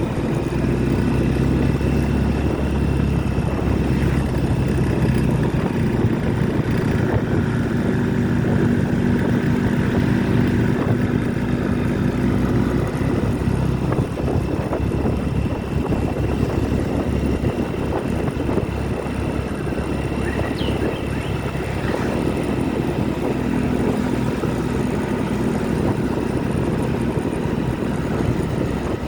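Motorcycle riding along the road: the engine running steadily under wind and road rush, its hum plainest in the first half and again near the end, with the rush alone taking over in between.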